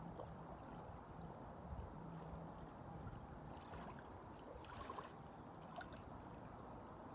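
Small waves lapping and splashing, with a low steady rumble of wind underneath.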